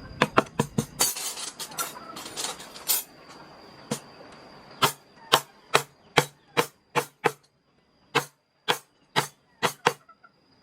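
Mallet tapping a wood carving chisel into wood: a quick run of sharp taps, a stretch of scraping cuts about one to three seconds in, then steady single taps about two a second.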